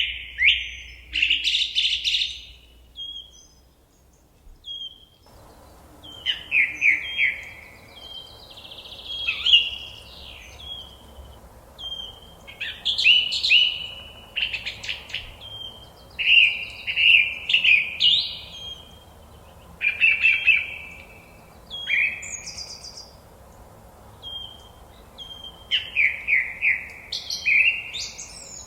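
Forest songbirds singing: short phrases of rapid, falling chirps repeated every second or two. The birdsong thins out for a couple of seconds early on, and a faint steady background hiss comes in suddenly about five seconds in.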